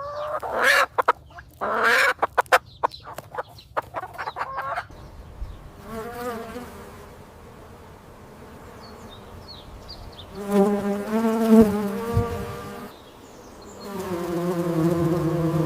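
A flying insect buzzing, in two long bouts in the second half. Short chicken-like clucks come first, over about the first four seconds.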